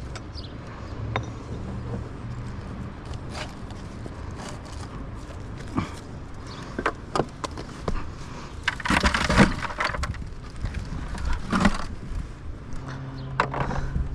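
Old chimney being torn down by hand: scattered knocks and clattering of bricks and mortar being broken loose. The loudest clatter comes about nine seconds in, with another sharp one a couple of seconds later.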